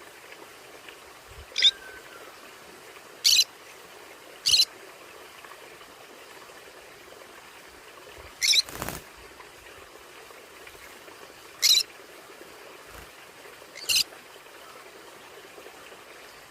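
Conure parrot giving short, high-pitched squawks, six in all, spaced one to three seconds apart over a faint steady hiss. A brief knock follows just after the fourth squawk.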